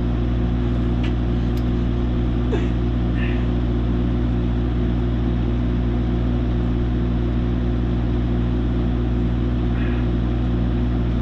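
Excavator's diesel engine running at a steady idle while it holds an engine on its lift, with a few faint clicks in the first seconds.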